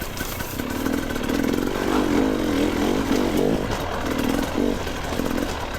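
Two-stroke dirt bike engine revving up and down as the bike is ridden along a trail, its pitch rising and falling every second or so.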